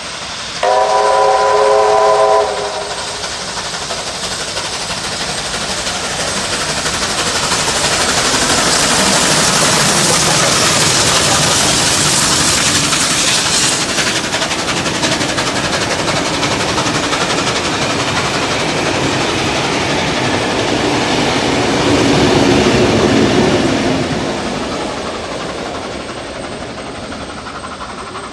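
Steam locomotive 3801's whistle sounds for about two seconds near the start, several tones at once. Then the train passes close by: a loud rush of steam and wheel noise, clattering over rail joints, that peaks about ten seconds in. A second, engine-toned swell follows around twenty-two seconds in as the trailing Class 42 diesel 4201 goes by, and then the sound fades.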